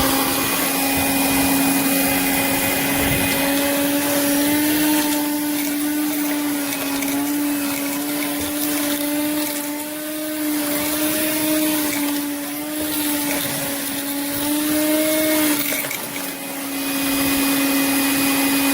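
Handheld portable car vacuum cleaner running, its motor a steady high whine as it sucks coins up off the floor. The pitch wavers slightly and dips briefly about sixteen seconds in.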